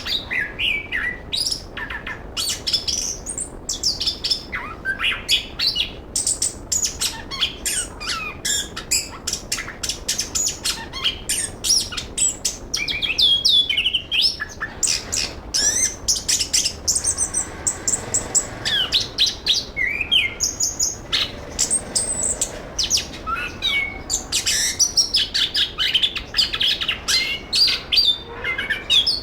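Chestnut-capped thrush (anis kembang) singing without pause: a fast run of varied high chirps, whistles and slurred notes, many per second, with a stretch of rapid repeated notes a little past the middle.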